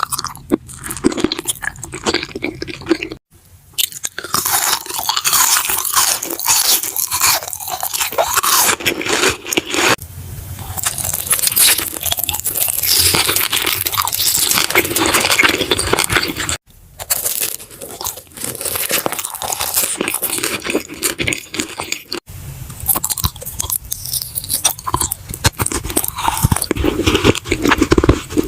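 Close-miked eating: crunching bites and chewing in quick, dense crackles, broken by several abrupt cuts.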